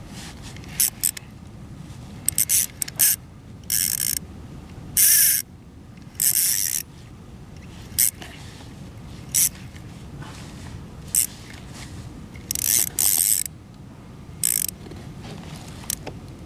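Fishing reel drag buzzing in about a dozen short, irregular bursts as a hooked jack crevalle pulls out line, over a low steady background.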